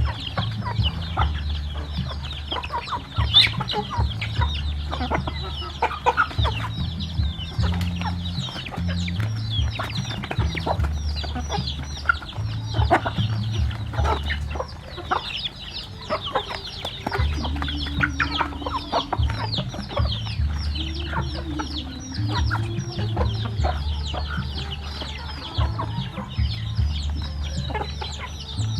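A flock of chickens clucking, with many short high calls throughout, over a low hum.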